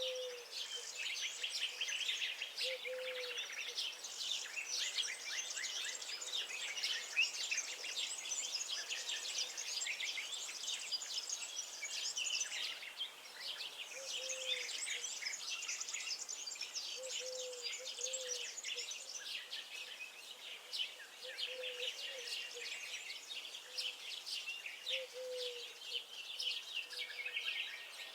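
A chorus of many small songbirds chirping and singing densely and continuously. Short low calls sound every few seconds beneath the chorus.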